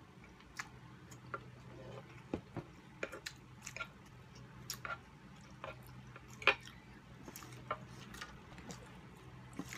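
Close-up eating sounds: chewing and lip smacks of soft siomai dumplings and pancit canton noodles, with scattered sharp clicks, the loudest about six and a half seconds in, over a low steady hum.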